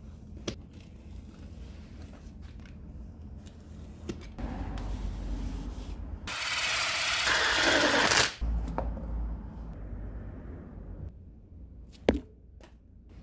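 Hand work on tool parts: rubbing and scraping, then a loud hiss lasting about two seconds that cuts off suddenly, and a single sharp knock near the end.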